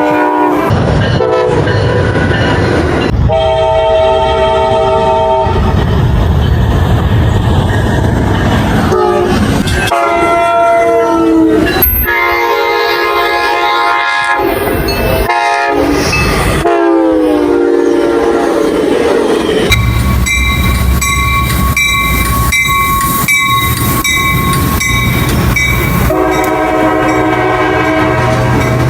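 Locomotive air horns sounding again and again as trains pass, in short clips that cut abruptly from one train to the next, with engine and wheel noise beneath. In the last third a steady high tone runs over a regular clatter of wheels on the rails.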